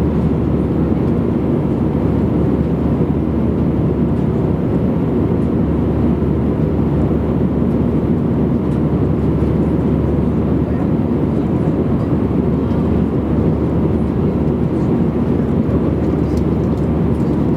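Steady jet airliner cabin noise in flight: engine and airflow rumble heard from inside the cabin, even and unchanging.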